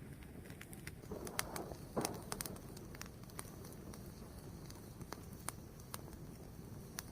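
Wood fire crackling, with scattered sharp pops over a low steady rustle; a cluster of louder pops comes about one to two seconds in.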